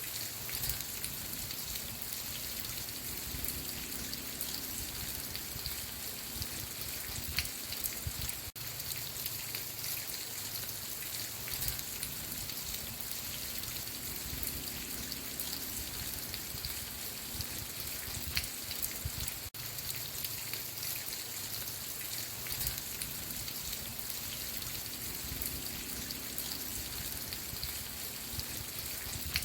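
Steady rain ambience: a dense patter of raindrops falling on a surface. Two brief dropouts, about eleven seconds apart, break it.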